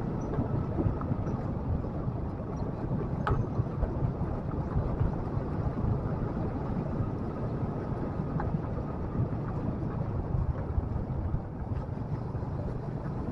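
Motorcycle riding along with its engine running steadily, a low rumble mixed with wind noise on the microphone.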